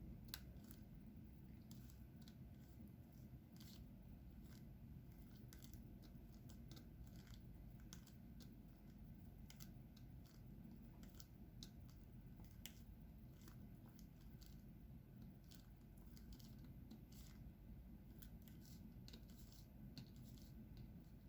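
Faint, irregular small clicks and taps of a diamond painting pen picking up resin drills and pressing them onto the canvas, several a second, over a low steady room hum.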